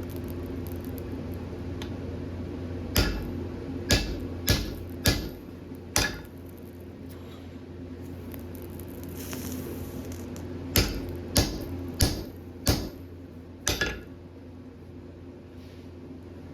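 Hammer blows on steel being forged on an anvil: a group of five strikes about three seconds in, a pause, then five more from about eleven seconds in, the last two close together. A steady low hum runs underneath.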